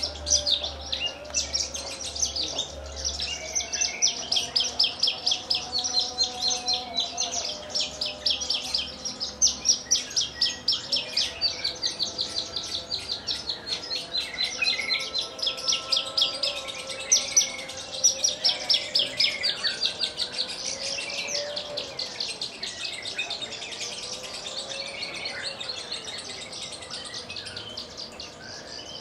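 Javan bush lark (branjangan) singing a long unbroken song of fast, closely repeated high notes.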